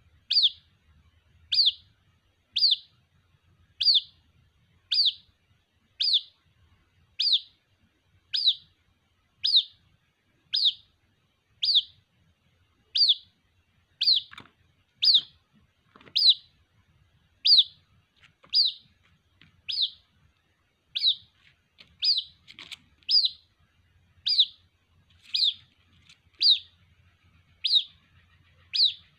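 White-breasted waterhen (ruak-ruak) chick calling for its mother: short, high piping notes, each dropping in pitch, repeated steadily about once a second.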